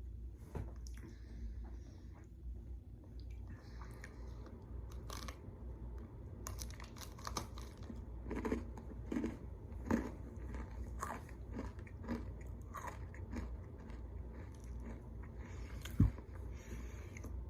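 Close-up crunching and chewing of a crunchy oats-and-honey granola bar, with irregular bites and chews throughout.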